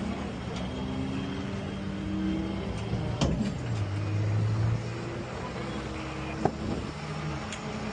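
A motor vehicle engine running, its pitch shifting slightly, with two sharp knocks, one about three seconds in and one near six and a half seconds.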